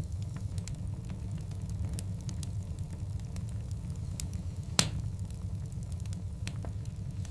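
Large logs burning in a wood fire: a steady low rumble of flames with scattered small crackles, and one loud pop a little after the middle.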